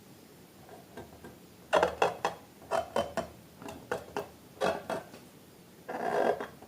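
Slime being worked, giving irregular sticky clicks and little pops that start about a second and a half in, with a denser squishing stretch near the end.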